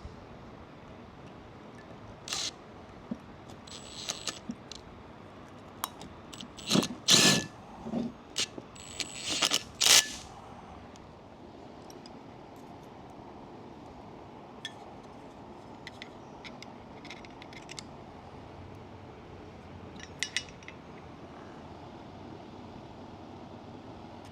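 Small metal engine-brake parts and tools clinking and tapping against each other in a string of sharp clicks, loudest about seven and ten seconds in, with a few fainter taps later. This is the hand reassembly of Jake brake components.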